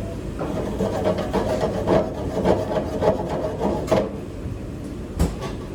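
Repeated scrubbing strokes on a hard surface, about two a second for roughly four seconds, then a single knock near the end.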